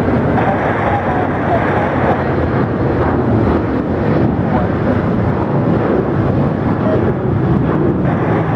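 Jet airliner engines, a steady loud rushing noise with no clear pitch and no rise or fall.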